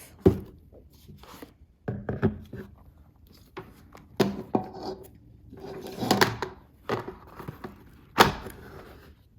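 An electric kettle and its power base being handled and set together, giving a series of knocks and clunks a couple of seconds apart, several with a brief ring.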